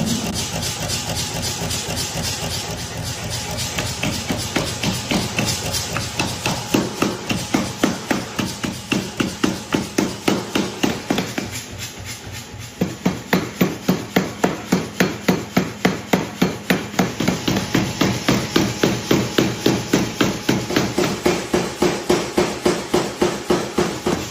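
Hammer blows on steel being forged, struck in a quick, even rhythm of about three to four a second, with a brief pause about halfway through before the hammering starts again.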